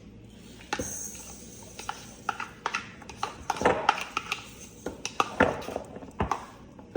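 Wire whisk clinking and tapping against a mixing bowl as it stirs a creamy dip, in quick irregular strikes starting about a second in.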